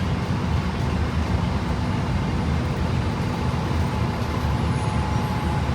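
Heard from inside the cabin, a 2011 Gillig BRT 29-ft transit bus under way: a steady low engine and road drone, with a faint thin whine from the Voith automatic transmission that sags slightly in pitch about four to five seconds in.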